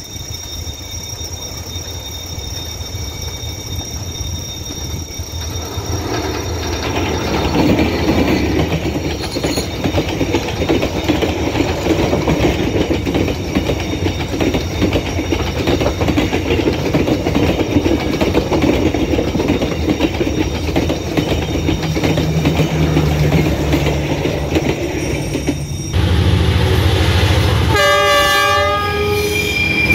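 Vietnam Railways diesel-hauled passenger train passing close, its wheels and coaches on the rails growing louder over the first several seconds and then staying loud as the coaches go by. Near the end, a locomotive's horn sounds a steady chord of several tones.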